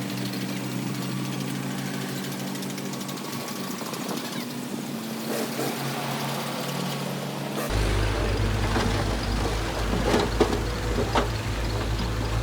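Heavy diesel engine running at a steady speed. About two-thirds of the way through, the sound changes abruptly to a deeper rumble with several sharp clanks.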